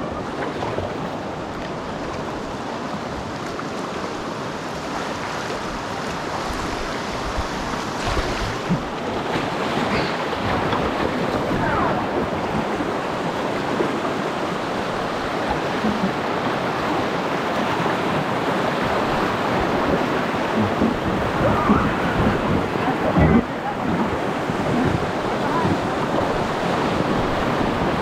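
Steady rush of flowing river water, slowly getting louder, with a few small knocks and splashes scattered through it.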